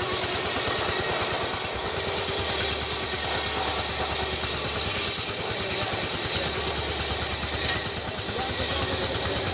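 An engine running steadily with a fast, even pulse, its low note swelling a little about two seconds in and again past the middle.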